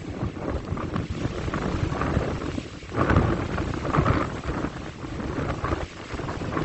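Wind buffeting the microphone in uneven gusts, a rumbling rush that swells about three and four seconds in.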